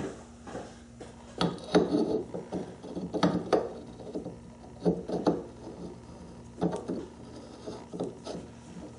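Irregular metal clinks and knocks, about a dozen, some briefly ringing, as a bored steel part is handled and tried onto the threaded nose of a lathe spindle. A steady low hum runs underneath.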